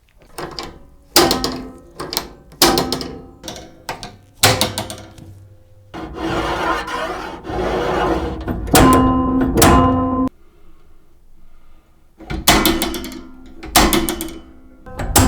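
Antique mechanical football arcade machine being worked: irregular sharp wooden and metal clacks, some with a short ringing after them, and a rattling run lasting about two seconds starting about six seconds in.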